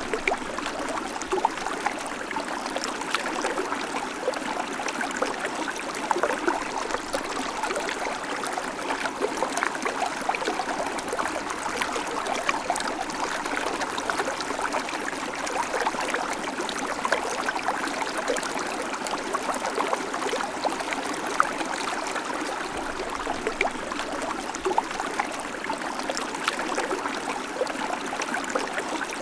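Babbling creek: shallow water running steadily over stones, a constant burble sprinkled with small splashes and trickles.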